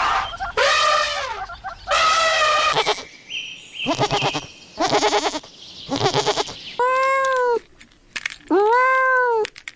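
Goats bleating: a series of separate quavering bleats, one after another with short gaps, followed near the end by two smoother calls that rise and fall.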